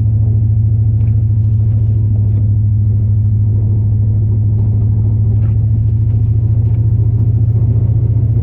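Big-block 8.1-litre V8 gas engine of a Chevrolet Silverado plow truck running steadily while driving, a loud, even low drone.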